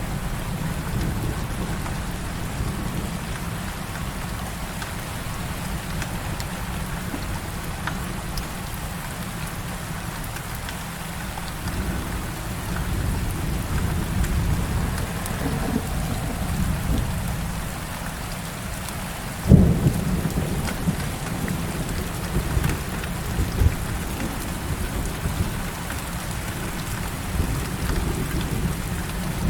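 Heavy rain falling steadily with thunder rumbling low underneath. About two-thirds of the way through, a sharp thunderclap is the loudest moment, followed by further rumbling.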